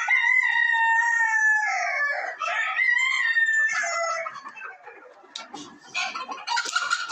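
Silver Polish rooster crowing: one long held crow over the first two seconds, then a shorter second call that falls away at its end, followed by quieter scattered chicken sounds.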